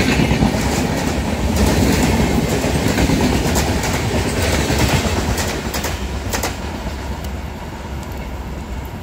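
Rajdhani Express coaches rushing past at speed, wheels clattering over the rail joints. The noise eases off over the last few seconds as the end of the train goes by.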